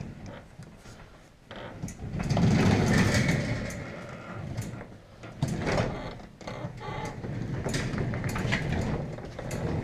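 Sectional garage door being moved by hand: rollers rumble along the metal tracks in uneven stretches, with metal clicks and clanks. The door now rides on a reconnected extension spring, which makes it lighter to lift.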